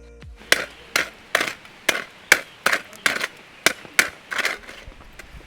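About ten short, sharp scraping strikes in quick, even succession, a little over two a second, made while getting a campfire lit.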